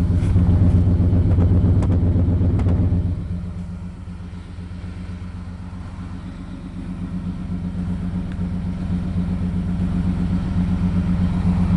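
A 1995 Chevy Cheyenne C2500's 5.7-litre 350 small-block V8 with throttle-body injection and a single exhaust, idling steadily while it warms up from a cold start. It is loudest for the first three seconds, drops noticeably, then slowly grows louder again toward the end.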